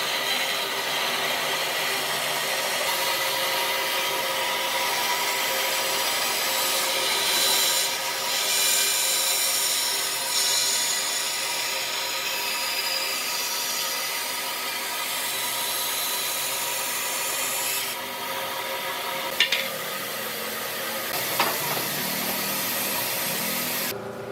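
Wood being worked with a tool: a continuous rasping, rubbing noise that eases off about three-quarters of the way in, followed by two sharp knocks.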